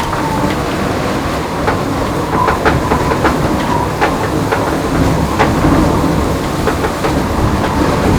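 IMOCA 60 racing yacht foiling at high speed: a steady heavy rumble of the hull shaking, with irregular knocks and rattles and a faint high whine that comes and goes.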